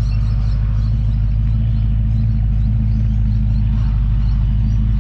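Car engine idling steadily: an even, low-pitched running note that does not change.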